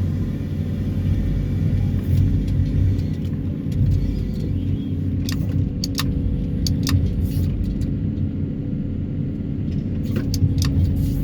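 Excavator's diesel engine and hydraulics running steadily with a low rumble, with a few sharp clicks or knocks about halfway through and again near the end.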